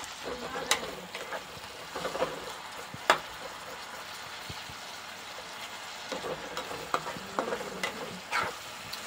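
Chopped tomatoes sizzling as they fry with onions in hot oil in a steel kadai, with a spatula stirring and scraping through them and knocking against the pan a few times.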